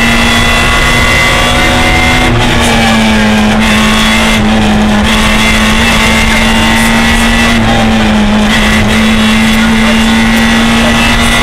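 Peugeot 106 Group N rally car's four-cylinder engine pulling hard at high revs, heard from inside the cabin. Loud and steady, with brief small dips in pitch about two and eight seconds in.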